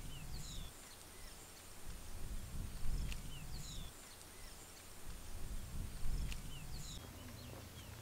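Small birds chirping in short, falling calls, the same pattern coming round about every three seconds. Each round comes with a click and a swell of low rumble.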